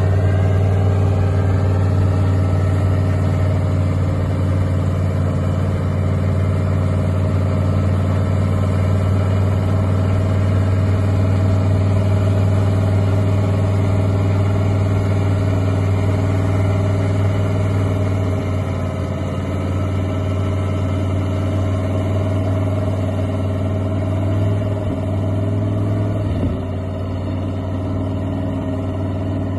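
A heavy vehicle's engine running at a steady speed, with a slight change in its note about two-thirds of the way through.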